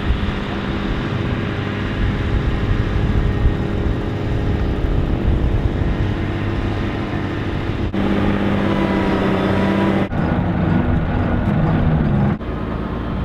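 Forklift engine running steadily, then revving up about eight seconds in and changing pitch a few times before settling back down near the end, as it works to raise the front of a hauled-out boat.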